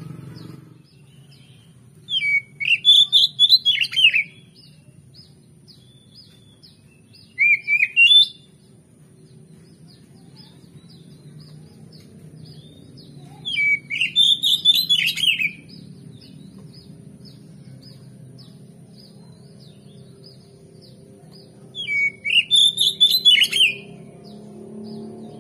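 Oriental magpie-robin (kacer) singing in four short, loud phrases of rapid sweeping notes, each a second or two long, with pauses between. A faint low hum and faint fast high ticking continue underneath.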